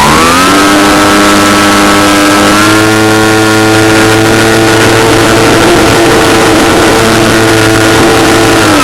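Model airplane engine running hard. Its pitch climbs in the first half second, steps up slightly about two and a half seconds in, holds steady, then drops near the end.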